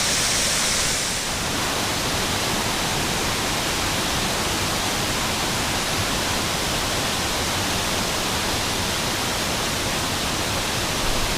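Waterfall: a steady, even rush of falling water. A little of the hiss in the top range fades about a second in.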